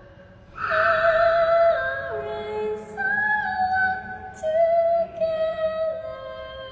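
A woman singing a slow horror-song melody in long held notes that step up and down in pitch, beginning about half a second in.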